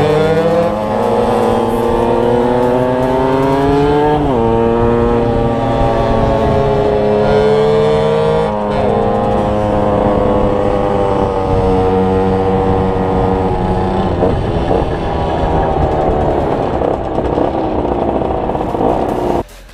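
Derbi DRD 50 cc two-stroke motorcycle engine under way, its pitch climbing through the revs, dropping sharply at a gear change about four seconds in and again a few seconds later, then holding and easing off. The sound cuts off abruptly near the end.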